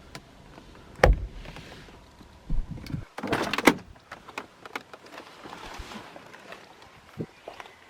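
A car door thudding shut about a second in, followed by a short clattering rustle a little after three seconds and a few light clicks.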